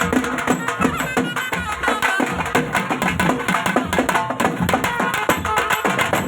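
Traditional Tamil folk music for kummi dancing: a melody over dense, quick drum and percussion strokes.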